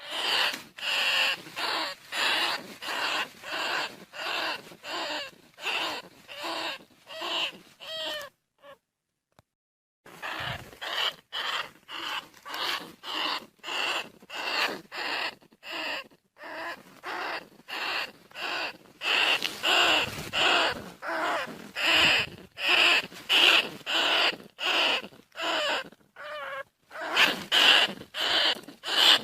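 Recorded calls of a bandicoot rat, short squeaky cries repeated about three every two seconds, with a break of a second or two about a third of the way in. It is the kind of call played as a lure to draw bandicoot rats in.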